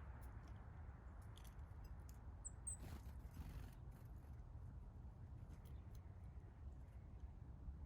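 Quiet backyard ambience with a steady low rumble and scattered light clicks, and two short high-pitched chirps from a small bird about two and a half seconds in.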